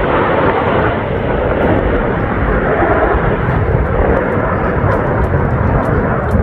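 Jet aircraft flying over at an air show: a loud, steady rushing engine noise.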